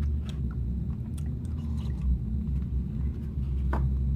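A person chewing and making small mouth noises while eating soup, a few soft clicks here and there, over a steady low rumble.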